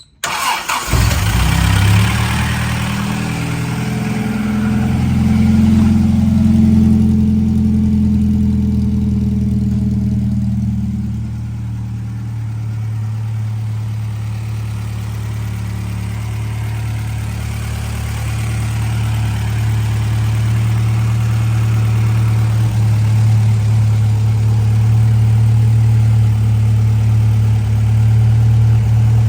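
Austin-Healey 100 BN1's four-cylinder engine starting from cold, catching almost at once. It runs at a raised idle for about the first ten seconds, then settles to a lower, steady idle.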